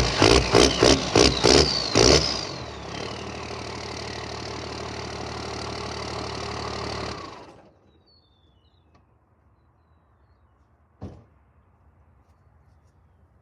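Dodge demolition derby car's engine blipped hard about seven times in quick succession, then running lower with a falling whine until it shuts off about seven seconds in. One short knock follows in the quiet.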